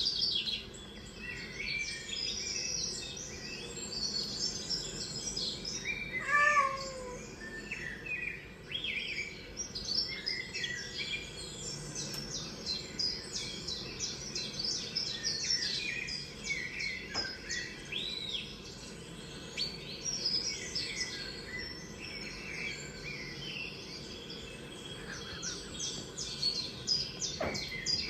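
Many small songbirds chirping, trilling and whistling, from a bird video playing on a TV, over a faint steady background hum. About six and a half seconds in comes one louder, lower call that falls in pitch.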